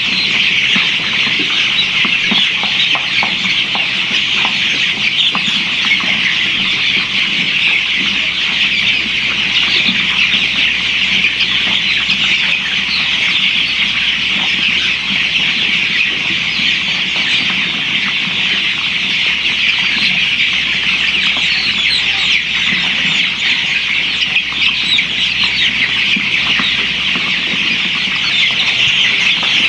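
A large flock of chickens calling all at once, a dense, unbroken din of many overlapping clucks and cheeps.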